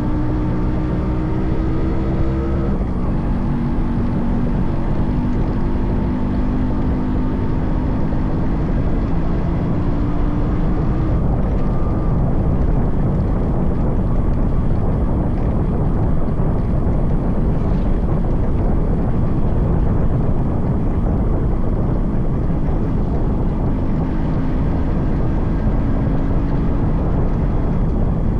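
Yamaha RX 100's 98cc air-cooled two-stroke engine under way, its note rising steadily with a drop about three seconds in, as at a gear change. For much of the middle the engine is half-buried under a steady rush of wind and road noise, and its note comes through clearly again near the end.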